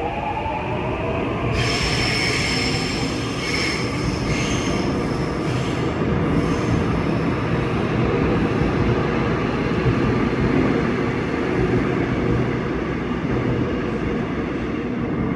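Seoul Subway Line 6 electric train running along the track at the platform: a falling motor whine at the start, then a high wheel squeal for several seconds over a steady loud rumble of wheels on rail.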